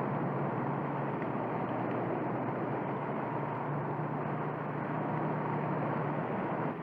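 Cartoon sound effect of the Mach 5 race car's engine running steadily as it drives, with a steady hiss of rain over it.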